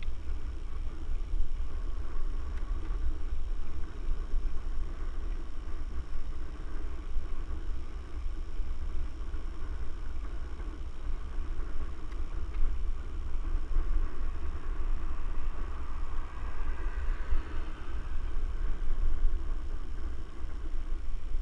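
Mountain bike riding along a trail: wind buffeting the microphone over a steady low rumble from the ride, unbroken throughout.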